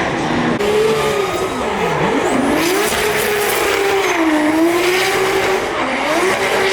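Drift car engine at high revs under full throttle, its pitch dropping sharply about two seconds in and climbing back, then wavering as the throttle is worked, with tyre squeal from the sliding rear tyres.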